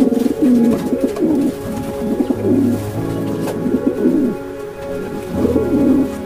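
Pigeon cooing: a run of low, rising-and-falling coos, a pause about four and a half seconds in, then one more coo near the end, over soft background music.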